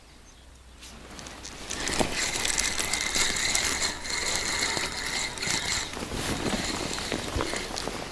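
Fishing reel turning: a steady mechanical whir with fast ratchet-like clicking that starts about two seconds in and eases off near the end.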